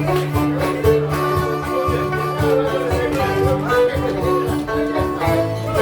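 Live folk music played on acoustic 12-string guitar and banjo, with steady strummed and picked notes.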